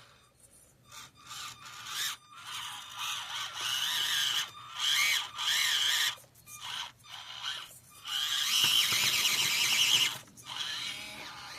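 Axial SCX24 micro RC crawler's small electric motor and gears whining in short stop-start bursts of throttle, with one longer burst of about two seconds near the end.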